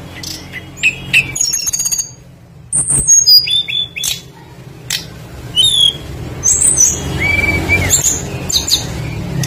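Small songbirds chirping and whistling in quick, varied high calls, some sliding in pitch, with one longer held whistle late on; tledekan-type flycatchers giving their full song. A couple of sharp clicks and a low steady hum sit underneath.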